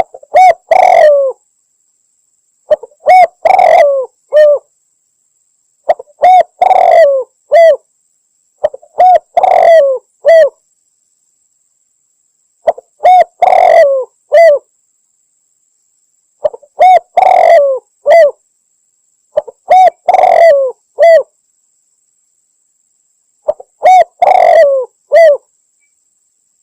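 A recorded spotted dove call played as a hunting lure, meant to draw in males. A short, loud phrase of several coos repeats about every three to four seconds, eight times.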